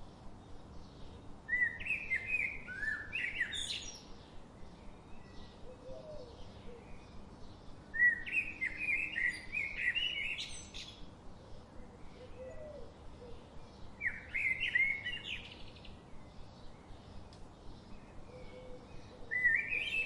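A songbird singing a short phrase of two to three seconds four times, about every six seconds, each phrase of quick notes climbing into a high flourish at its end. Fainter, lower bird calls come in the gaps.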